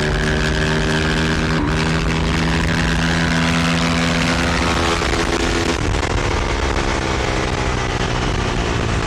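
Motorbike engine drone heard while riding: a steady pitched note that shifts about six seconds in, over wind rumble on the microphone.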